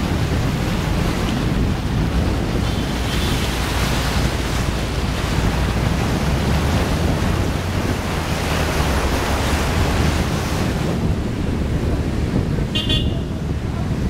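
Water rushing and surging against a Maruti Suzuki Swift as it drives through deep flood water, with the car's low rumble underneath. A brief high-pitched tone sounds near the end.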